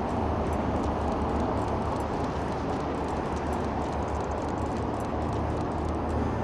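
Steady city street traffic: cars driving past on a snow-covered road, an even rushing noise over a constant low rumble.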